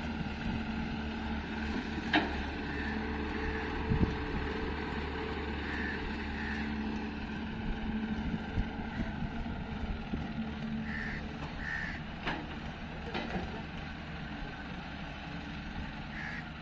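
Diesel engine of heavy machinery running steadily, with a few sharp knocks now and then. Crows caw at intervals over it.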